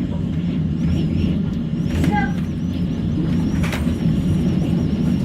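F4 tornado's wind with a steady low roar, and a sharp crack of debris striking about two-thirds of the way in.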